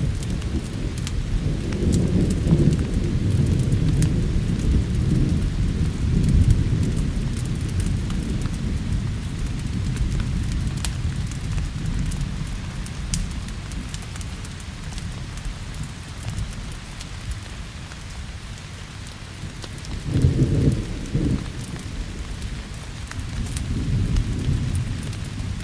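Steady rain with rolling thunder: a long deep rumble through the first half that slowly dies away, then two shorter rumbles near the end. Sharp crackles from a wood fire are scattered throughout.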